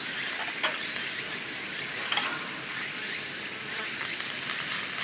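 Steady chorus of summer insects, with a few short sharp pops or clicks over it.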